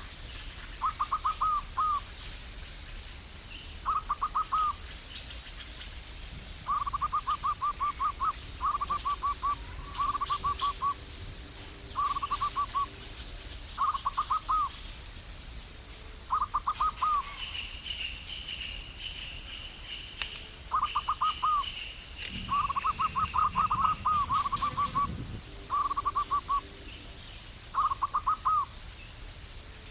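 A bird calling over and over in short bursts of quick notes, one burst every second or two, over a steady high, fast-pulsing insect trill. A second, higher bird whistle comes in about halfway through for a few seconds.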